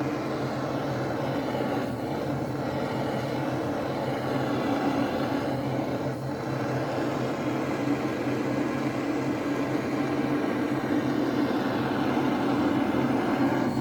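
Steady whir and rush of a hot-air heat gun heating the BMW R60/5 crankcase where the front crankshaft support fits, bringing it up to about 80–100 degrees. The sound holds constant throughout.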